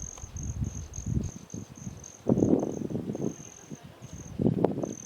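A high-pitched insect trill, steady but broken into short pulses, goes on under footsteps on dry ground. Two heavier, louder steps come about halfway and near the end.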